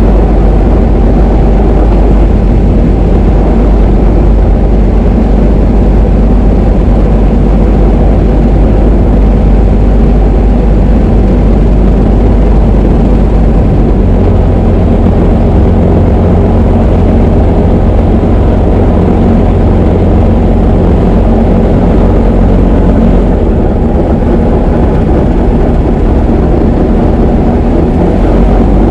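Diamond DA20 light aircraft's piston engine and propeller droning steadily and loudly. The low hum shifts in pitch about halfway through, and the level dips slightly for a few seconds near the end.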